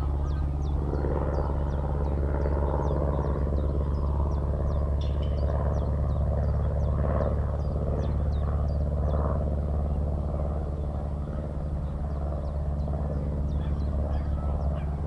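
A steady, low engine drone with even, unchanging tones runs throughout. Over it, a skylark sings a fast stream of short, high chirping notes.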